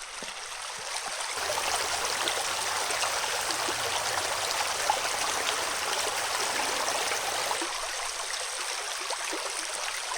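Creek water running over rocks as a steady rushing wash. It grows louder about a second and a half in and eases off slightly near the end.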